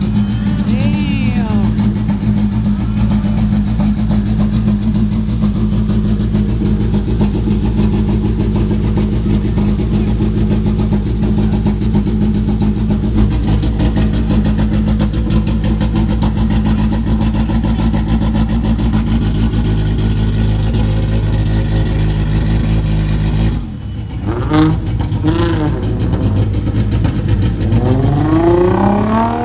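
Car engine running loudly at a steady pitch. After a sudden drop it gives two short throttle blips about a second apart, then a long rising rev as the car accelerates away.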